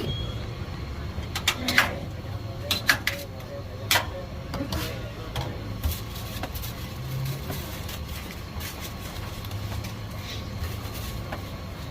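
Street-food stall noise: scattered sharp knocks and clacks, most in the first half, over a steady low hum.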